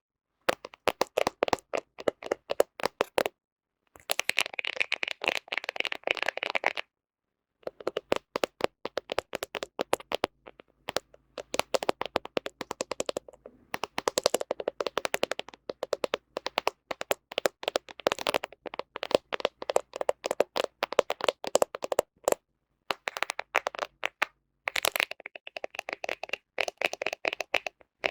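Fingernails rapidly tapping and scratching on a smartphone camera lens: close, dense runs of quick clicks, broken by a few short pauses.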